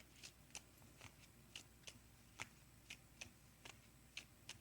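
Near silence with faint, light clicks at uneven spacing, about two or three a second.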